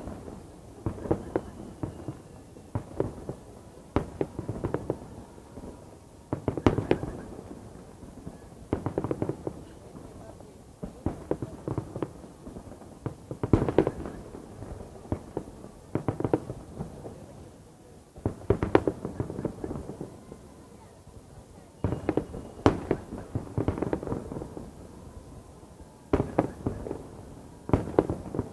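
Fireworks salute going off overhead: clusters of loud bangs every two to three seconds, with crackling and echo between the salvos.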